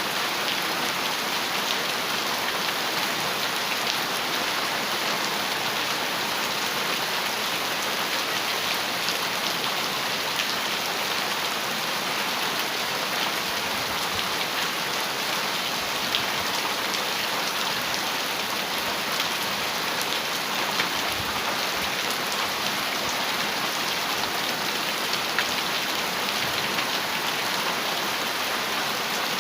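Heavy rain falling steadily on a metal roof: a dense, even hiss with many small sharp drop ticks.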